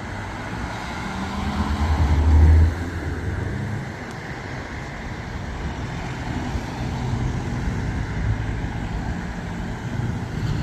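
Car engine rising in loudness as it drives past, peaking about two and a half seconds in and dropping away suddenly, then steady engine and traffic noise from other cars.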